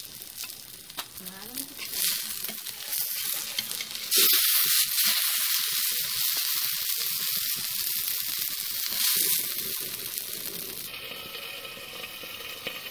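Okra (bhindi) sizzling as it fries in hot oil in a pan. There are a few light clicks of a steel spatula early on, and the sizzle gets suddenly louder about four seconds in, then eases off toward the end.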